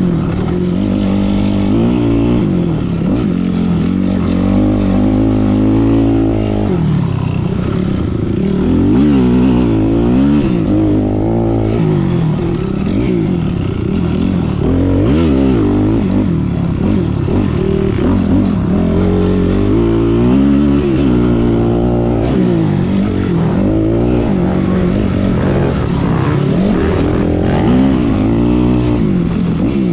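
Kawasaki KX65 two-stroke dirt bike engine being ridden hard, its pitch revving up and dropping back again and again, every second or two.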